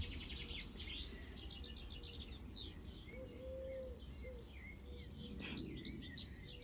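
Small birds chirping and singing in quick, repeated trilled phrases, over a low steady background rumble.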